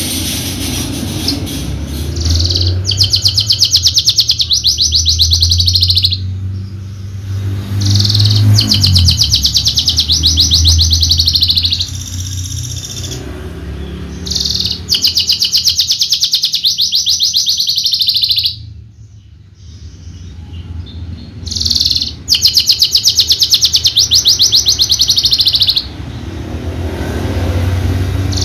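Javan bush lark (Mirafra javanica) singing: long phrases of very rapid, rattling trilled notes lasting several seconds each, broken by short pauses.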